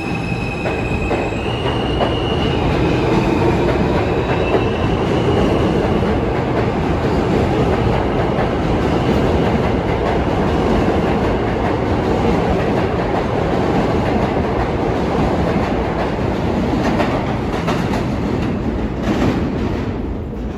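New York City subway train running on the track: a steady loud rumble with wheel clatter. In the first two seconds a whine from its electric traction motors steps upward in pitch as it gathers speed.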